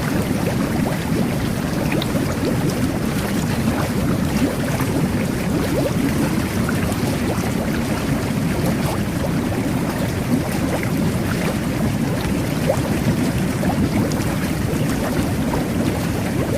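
Jet bath churning the bathwater with a steady bubbling rush, with many small popping bubbles.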